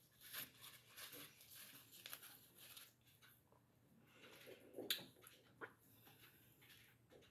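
Near silence with faint, scattered small clicks and rustles, and one sharper click about five seconds in.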